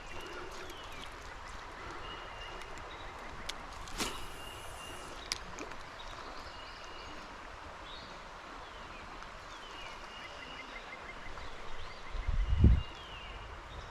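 Steady rushing of a mountain stream, with birds calling over it in short whistled notes and a quick trill. There are a couple of sharp clicks about four and five seconds in, and a brief low bump near the end.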